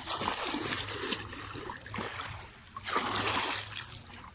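Sea water splashing in two surges: one at the start lasting about two seconds, and a shorter one about three seconds in.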